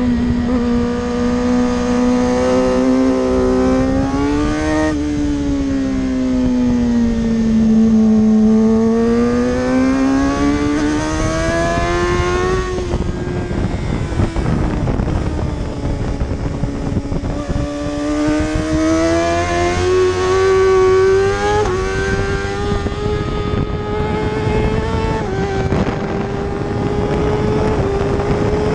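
Racing superbike engine at high revs, one engine throughout, its pitch climbing and falling as the bike accelerates and slows. There are sudden steps in pitch at gear changes, about five seconds in, near thirteen seconds, and twice more in the second half, over a steady rushing noise.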